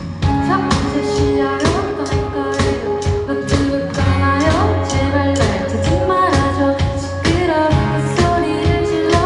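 Amateur band playing a song live: a singer over the band with a steady drum beat.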